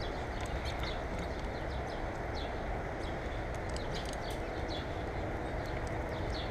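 Small birds chirping at a feeder: short, high calls scattered throughout, over a steady low background noise.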